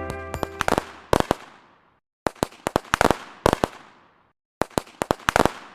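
Three clusters of sharp pops and cracks in quick succession, each cluster trailing off, with short silences between them, as soft music fades out at the start.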